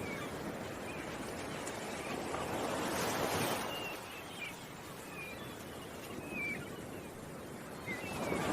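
Ocean waves washing in, one swelling about three seconds in and another near the end, with small birds chirping now and then.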